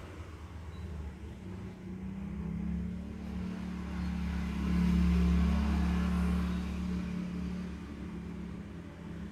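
A motor vehicle passing by: a low engine and road rumble that swells to its loudest about halfway through, then fades.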